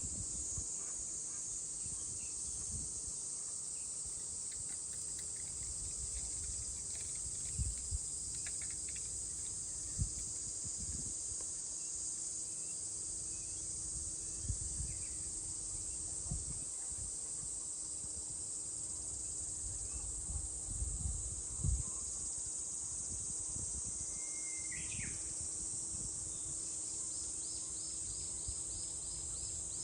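Cicadas droning steadily at a high pitch. A single short bird chirp comes about three-quarters of the way through, with a brief rapid run of clicking pulses near the end and scattered low thumps underneath.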